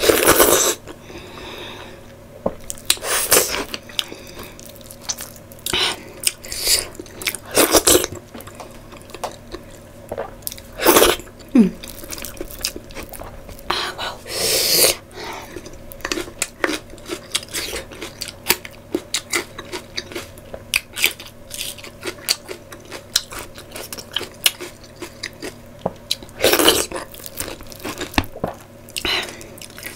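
Close-miked chewing and biting of a person eating curry by hand, with wet mouth smacks and occasional crunches coming at irregular moments.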